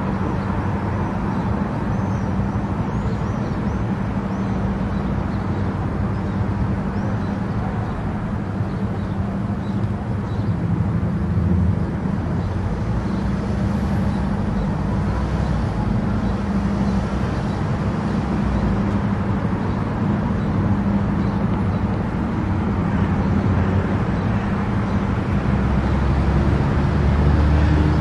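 Car travelling at highway speed: steady engine hum and tyre and road noise.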